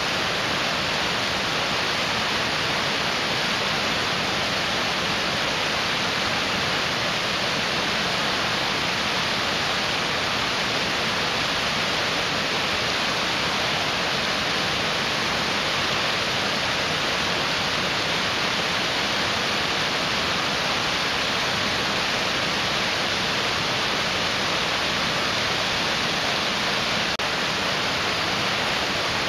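Fast-flowing mountain stream rushing over rocks: a steady, even hiss of water with no change in level.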